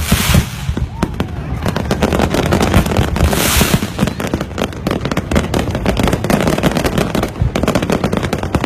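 Fireworks going off: a dense, irregular run of crackling pops and bangs, with a brief burst of hiss at the start and another about three and a half seconds in.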